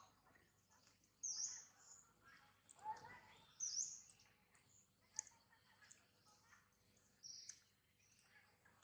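Faint short, high bird chirps, a few of them several seconds apart, over quiet outdoor background.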